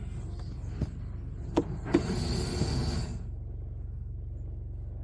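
Steady low rumble with a few sharp knocks, about a second and two seconds in, followed by a brief scraping, rustling noise lasting about a second.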